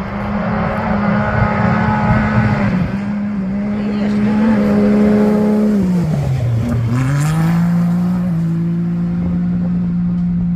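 Rally-raid competition vehicle's engine running hard at a steady pitch. About six seconds in the revs drop sharply, then climb back up and hold, as for a lift and re-acceleration.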